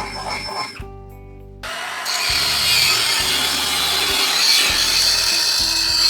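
Background music, and from about two seconds in a power tool working on metal, running steadily and louder than the music.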